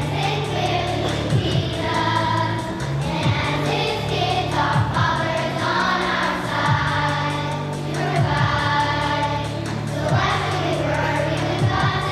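A group of voices singing a song over instrumental accompaniment, with steady bass notes and a regular beat.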